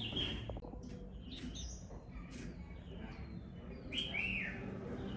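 Small birds chirping: a short high call at the start and a louder, falling call about four seconds in, over a steady low hum.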